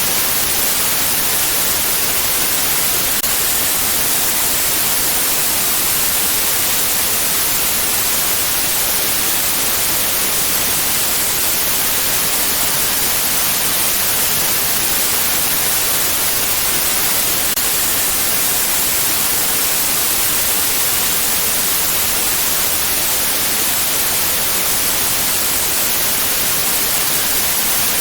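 Steady white noise: an even, unchanging hiss, strongest in the high frequencies, with no changes or events.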